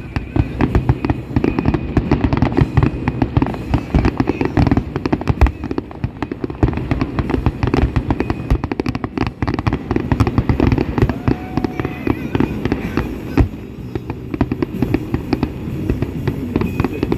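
Fireworks finale: a dense, unbroken barrage of bangs and crackles from many shells bursting in quick succession.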